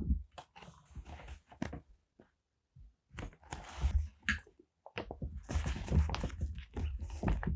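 Paper and stationery handled on a desk: crinkling and rustling with light taps and soft thunks, pausing about two seconds in, then busier handling.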